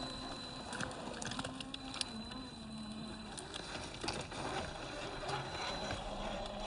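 1/10-scale RC rock crawler driving slowly over dirt: a faint whine from its electric motor and geared drivetrain that wavers in pitch with the throttle, with tyres crunching and scattering small stones in many short clicks.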